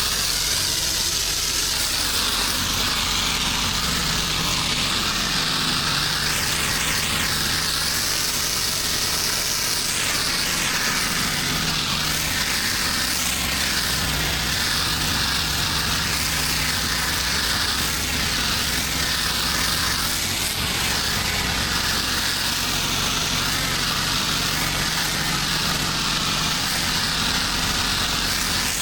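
Engine of a pressure-washing rig running steadily under a constant hiss of spraying water.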